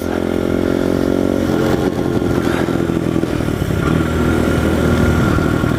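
Honda XR100 pit bike's single-cylinder four-stroke engine running under way at steady revs, its note wavering and breaking up about a second and a half in.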